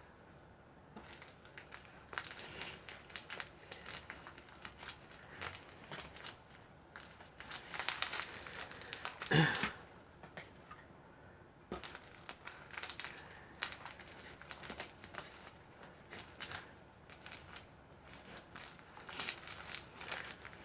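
Irregular rustling and crinkling from fabric and craft materials being handled and worked, with a louder brief rustle about halfway through.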